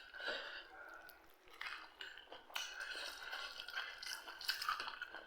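Close-up chewing: repeated moist smacks and small clicks of food being chewed.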